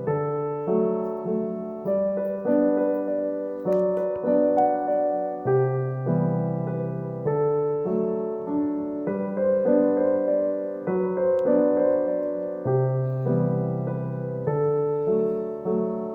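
Background piano music: slow sustained chords and a melody over a low bass line.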